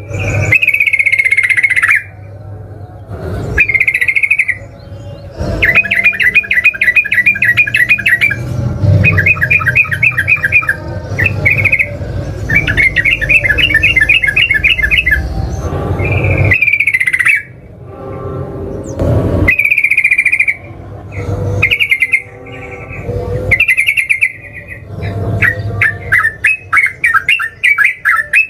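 Yellow-vented bulbul (trucukan) singing loudly in short bursts. Brief slurred whistled phrases alternate with rapid chattering trills (the 'ropel'), repeated again and again with short pauses between them.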